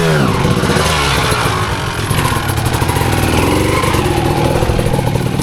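Dirt bike engine running under throttle, revving up and down, with a falling sweep in pitch right at the start.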